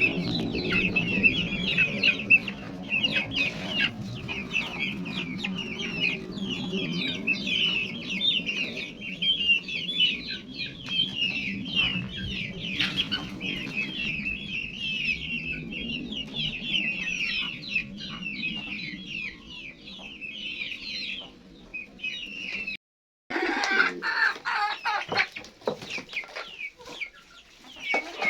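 Poultry flock: a dense, continuous chorus of high chicks' peeping over lower hen clucking. A brief break about 23 seconds in, after which the calls come louder.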